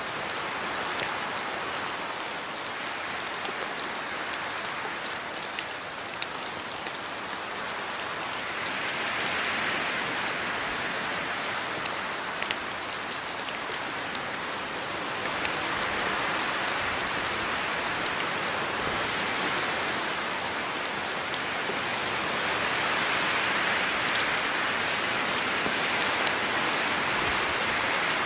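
Steady rain falling on a yard, a dense hiss with many individual drops ticking on surfaces, swelling and easing in slow waves.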